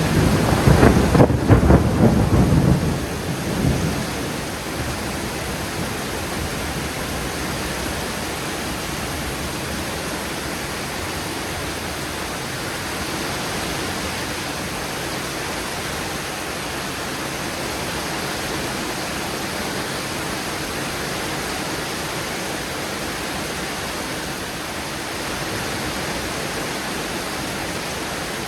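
A thunderclap rumbling low and loud for the first three to four seconds, fading into the steady hiss of heavy rain during a thunderstorm.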